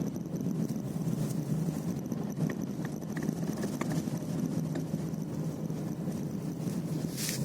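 Renault Duster running with a steady low drone, and a faint knocking ('tuk-tuk') heard over it.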